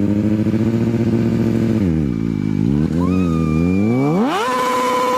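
Motorcycle engine running at a steady speed, then its revs drop and waver before climbing sharply about four seconds in and holding high.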